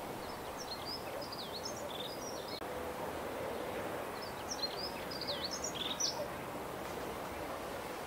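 Songbird singing two short phrases of quick, high twittering notes over a steady outdoor hiss.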